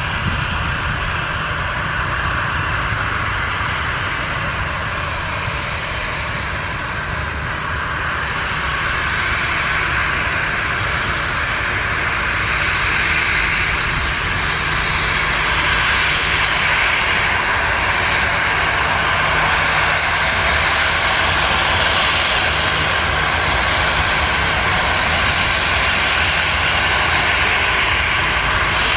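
Airliner engines running, a loud steady rush with a low rumble underneath, growing louder about twelve seconds in.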